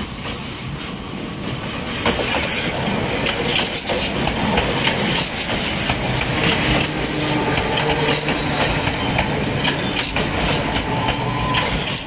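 Enoshima Electric Railway (Enoden) electric train running close past at low speed as it pulls into a station, its wheels clicking over the rail joints, louder from about two seconds in as the cars come alongside, with a low hum under the clicks in the second half.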